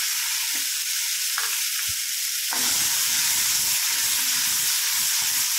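Wet ground masala paste sizzling in hot oil in a steel kadhai as it is stirred in with a metal spatula, with a few short scrapes of the spatula on the pan. The sizzle grows a little louder about two and a half seconds in.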